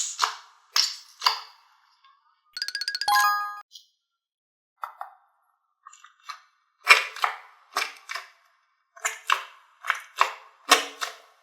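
Hard plastic toys knocking and clacking together in quick sharp strikes, with a short burst of electronic toy beeping about three seconds in.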